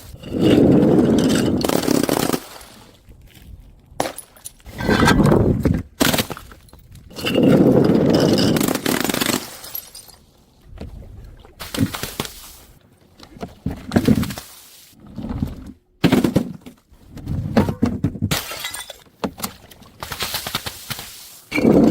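Glass bottles smashing one after another: three long, heavy crashes in the first ten seconds, then a run of shorter, lighter crashes every second or two.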